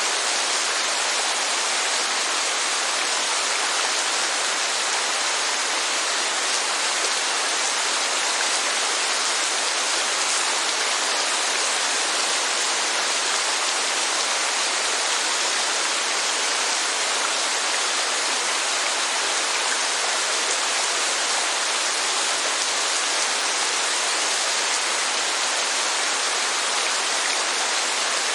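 Steady, even rush of rain and falling water, with no music.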